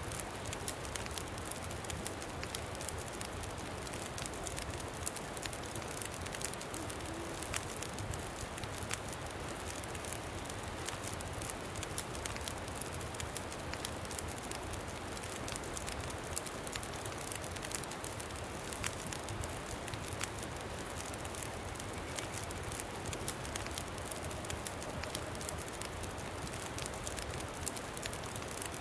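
Campfire crackling, with many small sharp pops over a steady rush of wind.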